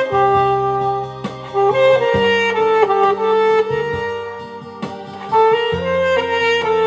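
Alto saxophone playing a slow song melody in long held notes that step between pitches, over an accompaniment with a sustained bass line.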